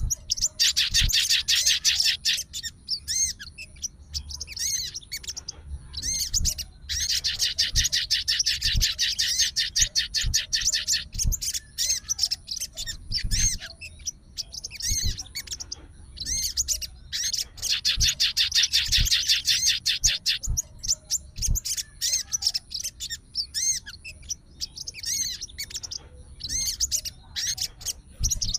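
Sogon songbird singing in full voice: three long, rapid, high trilling phrases of a few seconds each, with shorter chirps and notes in between.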